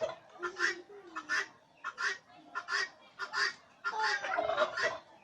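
A flock of domestic turkeys calling, a quick run of short repeated calls from several birds overlapping.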